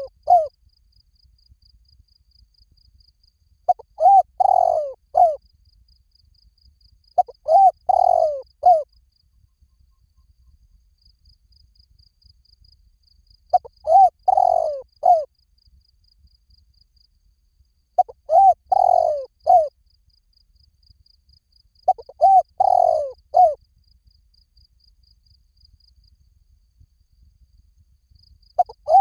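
A spotted dove cooing: repeated phrases of three or four rising-and-falling coos, each about a second and a half long, spaced a few seconds apart, the kind of call used to lure doves to a trap. Faint rapid high ticking, like an insect, runs between the phrases.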